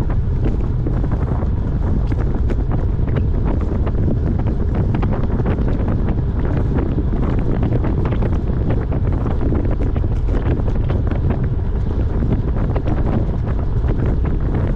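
Wind buffeting a camera microphone while riding a road bike, a steady loud rumble with many small ticks scattered through it.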